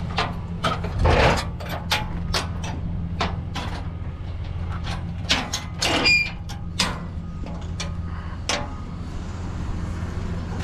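Vehicle running with a steady low drone, with frequent clicks and knocks over it and a brief squeak about six seconds in.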